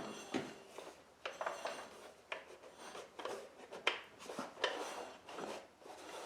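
Irregular metallic clicks and clunks from a 19 hp Kohler riding-mower engine being turned over by hand; the engine was run without oil, and the clunks are taken as a sign of damage inside it.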